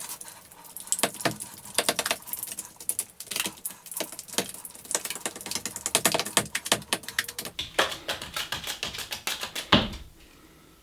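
A drywall knife stirring and scraping quick-dry joint compound in a bucket, with rapid irregular clicks and scrapes against the bucket sides, thinned with water to loosen it. A louder knock comes near the end, then the mixing stops.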